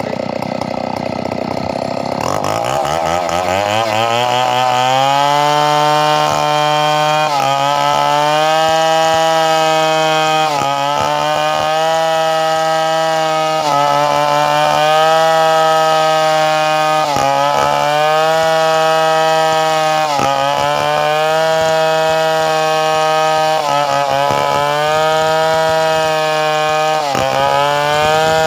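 Two-stroke chainsaw revving up about two seconds in and then held at high revs. Its pitch dips briefly every three seconds or so.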